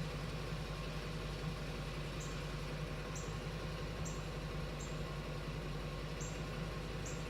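Faint short high squeaks, about one a second, over the steady low hum of a 2015 Ford Transit van's engine idling. The squeaks are the van's intermittent strange noise, linked to vacuum in the fuel tank.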